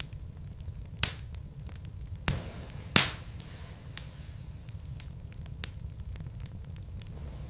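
Wood logs burning in a fireplace, crackling with scattered small ticks and a few sharp pops, the loudest about three seconds in, over a steady low rumble.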